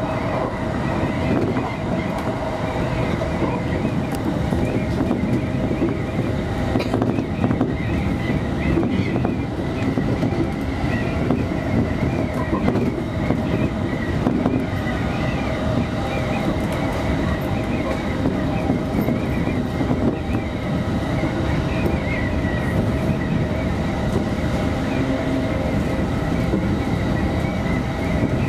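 Electric commuter train running steadily on the rails, heard from inside the front car: an even rumble of wheels and running gear with a steady high tone over it.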